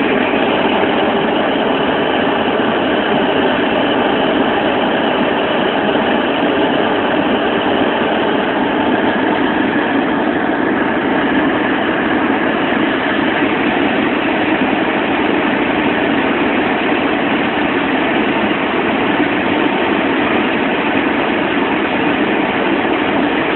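Steady engine and road noise heard inside a car's cabin, an even rush with no changes.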